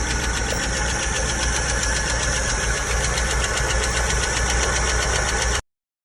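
An engine running steadily with a fast, even pulse, cut off abruptly near the end.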